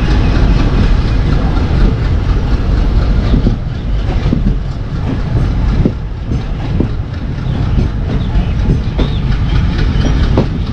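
Passenger train running on a diesel route: the steady rumble of the coach on the rails, with irregular 'thadak thadak' clacks as the wheels pass over rail joints.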